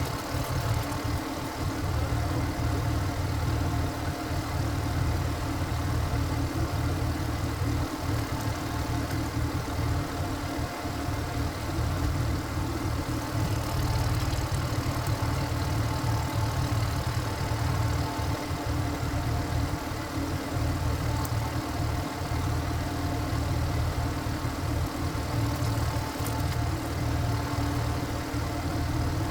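Single-cylinder diesel engine of a walking tractor running steadily at an even speed.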